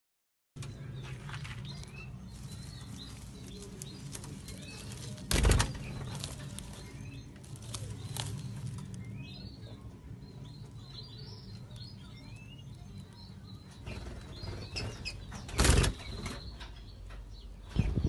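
Small aviary birds chirping in short, high, scattered calls over a low steady hum, with two brief loud thumps, about five seconds in and near the end.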